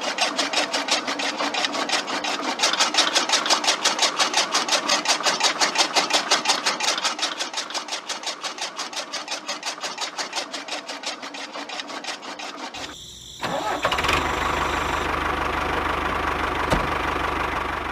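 Small electric motor driving a homemade miniature chaff cutter, clattering rhythmically about five times a second. About 13 seconds in it stops briefly, then a steadier motor hum with a low rumble takes over.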